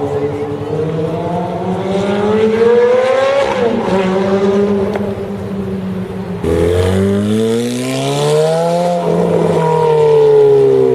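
Ferrari F430's flat-plane V8 through a Capristo exhaust, accelerating hard with its engine note rising, then dropping at a gear change about three and a half seconds in. A second, louder acceleration cuts in sharply about six and a half seconds in, climbs, and falls in pitch near the end.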